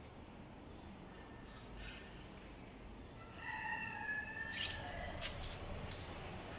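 A rooster crowing once, a single call of about a second and a half, followed by a few sharp knocks.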